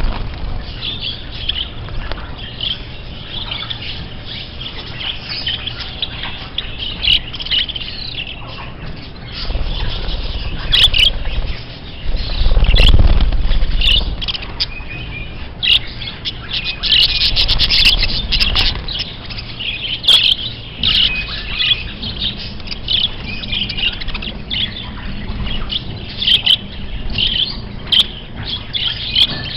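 Small birds chirping and tweeting, many short calls overlapping. A loud low rumble comes in about twelve seconds in and lasts a couple of seconds.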